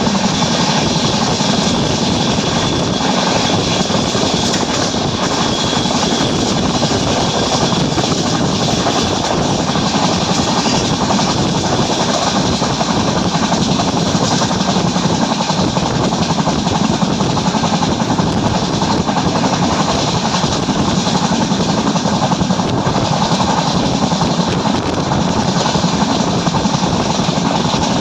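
Train hauled by an ALCO diesel locomotive running at speed: a loud, steady, unbroken rumble and rush of engine and wheels on rail.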